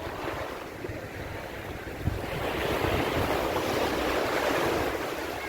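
Sea waves breaking on a beach: a wash of surf swells about two seconds in and eases off near the end. Wind buffets the microphone with low rumbling gusts.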